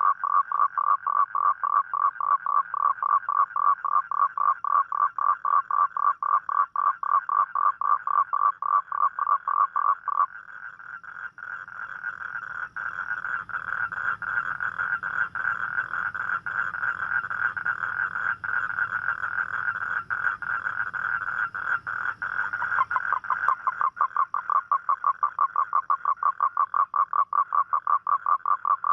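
Toad calling: a loud, rapid pulsed croak, several pulses a second. About ten seconds in it gives way to a faster, slightly higher continuous trill. The pulsed calling comes back near the end.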